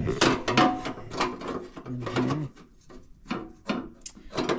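Heater hoses and ducts being handled and fitted together by hand: irregular rubbing, scraping and light knocks of the parts against each other.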